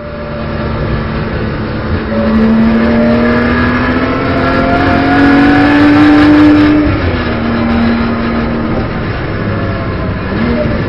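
Engine of a BMW M240i Racing Cup car, a turbocharged 3.0-litre straight-six, heard from the cockpit under acceleration. Its pitch climbs steadily for about five seconds, then drops about seven seconds in, and the engine carries on at lower revs.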